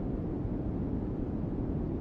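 Steady, deep noise with no tones or rhythm, most of its weight low down and little hiss on top: the continuous soothing background noise of a sleep-aid track, the 'white noise' of a relaxation video.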